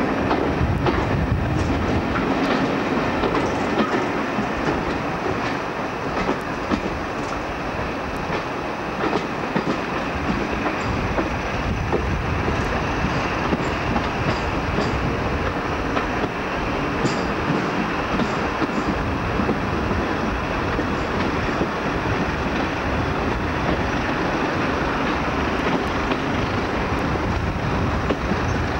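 Diesel-hauled passenger train running, heard from an open carriage window: a steady rumble of locomotive and coaches, with the clickety-clack of the wheels over rail joints.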